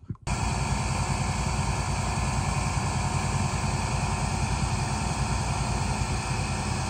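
Car engine idling steadily, a low, even rumble with a steady hiss over it.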